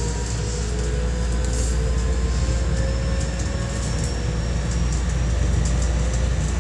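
Running sound heard inside a JR West 207 series 2000-subseries electric train car: steady wheel and track rumble, with the whine of its Toshiba VVVF inverter traction motors slowly rising in pitch as the train gathers speed.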